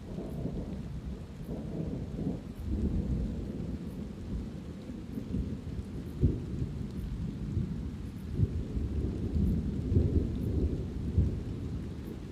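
Thunder rumbling over light rain, swelling as the rumble begins and rolling on with several sharper loud peaks, about halfway through and again near the end.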